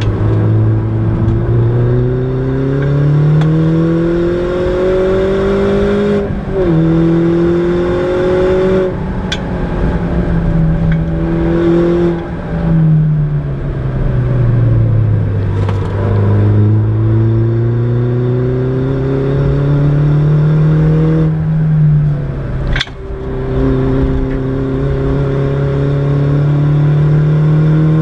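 Mini John Cooper Works R56's turbocharged four-cylinder, heard from inside the cabin, accelerating hard through the gears. The pitch climbs, drops at each upshift, and sinks low then rises again through a slower corner. A few short sharp clicks cut in along the way.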